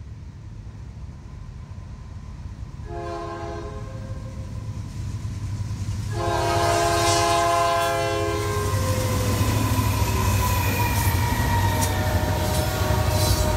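Canadian National diesel freight locomotive's multi-chime air horn sounding a short blast about three seconds in, then a long one, for the grade crossing. The engine rumble swells as the locomotive arrives and passes, and it gives way to the rolling rumble and clickety-clack of covered hopper cars going by.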